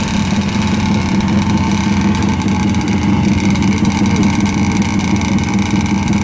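Classic racing motorcycle engines running steadily at idle.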